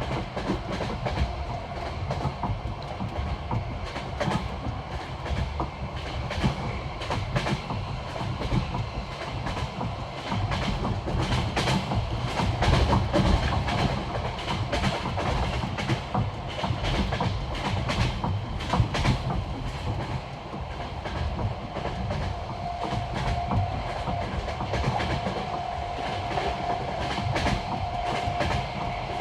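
Passenger train wheels clicking over the joints of jointed (non-welded) rails at speed, heard from inside the carriage over a steady rumble. A faint steady whine joins about two-thirds of the way through.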